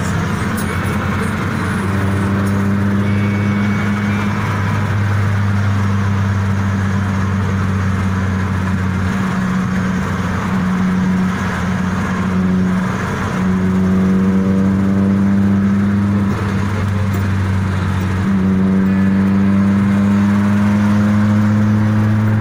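Hyundai Accent's engine heard from inside the cabin while driving at highway speed, over steady road and tyre noise. Its hum climbs slowly in pitch as the car accelerates, drops back a couple of times about halfway through and again past two-thirds, then rises again near the end.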